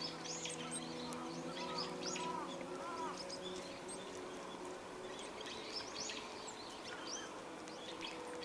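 Several small birds chirping and calling, with many short high chirps throughout and a few lower arched calls about one and a half to three seconds in, over a steady low hum.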